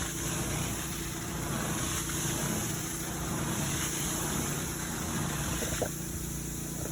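A motor running steadily with a constant hum and hiss. Near the end the hiss drops off and a couple of sharp clicks sound.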